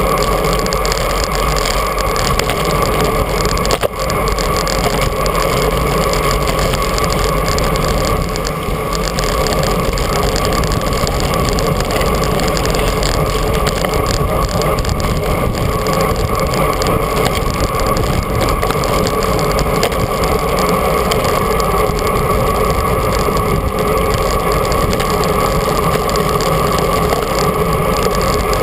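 Steady rush of wind over a GoPro action camera while cycling, with a brief dip about four seconds in.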